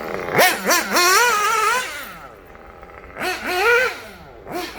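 Nitro engine of a 1/8-scale Kyosho Inferno Neo 2.0 buggy, fitted with a Dynamite 053 tuned pipe, revving high in two bursts. Its pitch climbs sharply and falls back with each burst.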